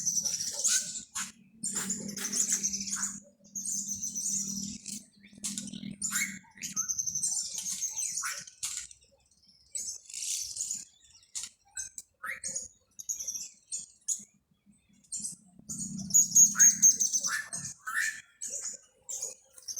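Several small birds chirping and trilling in short high bursts, some in quick repeated notes, overlapping throughout. A low steady hum comes and goes beneath them.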